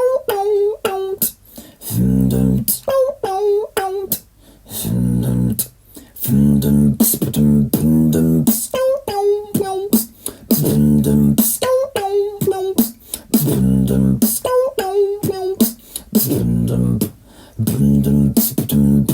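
Solo beatboxing: deep hummed bass notes, sharp vocal snares and clicks, and short sung melodic phrases, all made by one voice in a steady looping rhythm.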